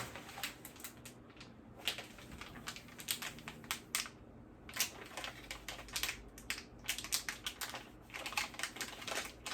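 Irregular clicks, taps and crinkles of small items and plastic packaging being handled and opened.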